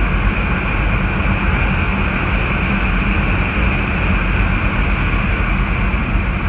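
Grain truck's engine running steadily, heard from inside the cab as a loud, constant rumble.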